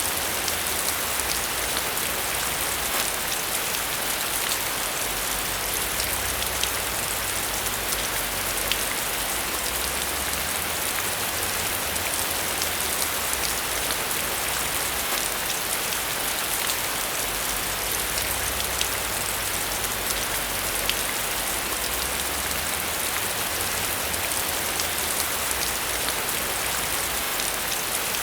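Steady rain falling, an even hiss brightest in the treble, with scattered sharp drop ticks all through it.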